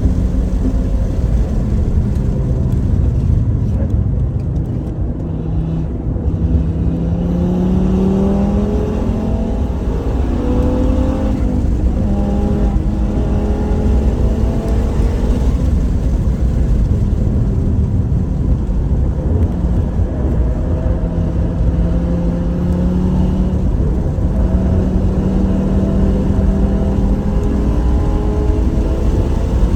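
Car engine at speed on a race track, its note climbing under acceleration and dropping as the car slows, over a heavy rumble of road and wind noise.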